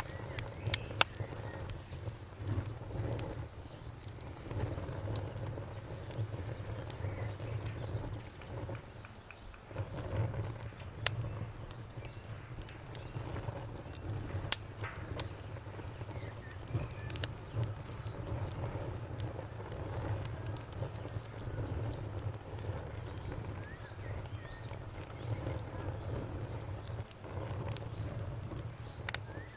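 Wood campfire crackling: sharp, irregular pops and snaps over a steady low rumble of burning wood.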